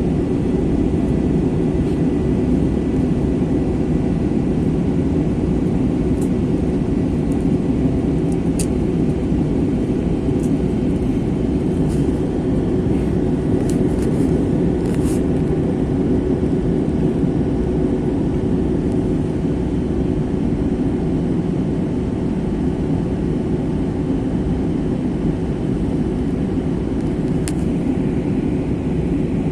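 Steady engine and airflow roar inside the cabin of an Airbus A321 in flight, with a constant hum under it and a few faint clicks.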